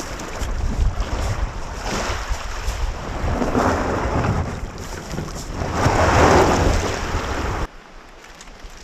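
Wind buffeting the microphone over water washing and lapping, swelling twice. It cuts off abruptly near the end to a much quieter background.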